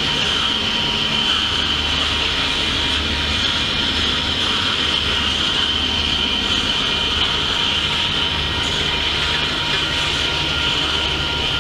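A long freight train of refrigerated boxcars rolling steadily past, its wheels running on the rails in a constant low rumble under a high hiss.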